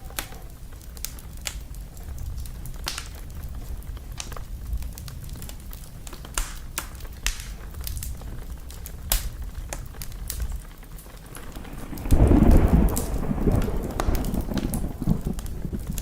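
Wood fire burning in a fireplace: a low steady rumble with scattered sharp crackles and pops. About twelve seconds in comes a sudden louder rush that fades over a few seconds.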